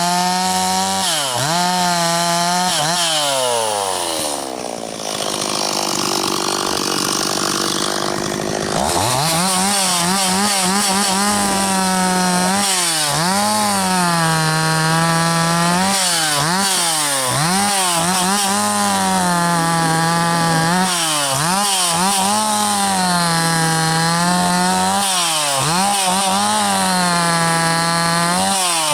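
Two-stroke chainsaw bucking a log at full throttle, its engine note dipping again and again as the chain loads up in the wood. About three seconds in the throttle is let off and the engine falls toward idle, then revs back up about nine seconds in and goes on cutting.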